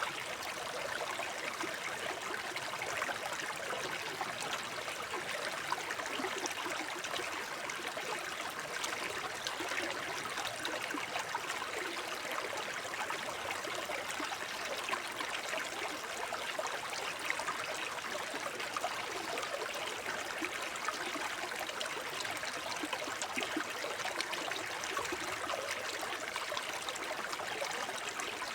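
Shallow forest brook babbling over stones: a steady rush of running water with constant small splashes and gurgles.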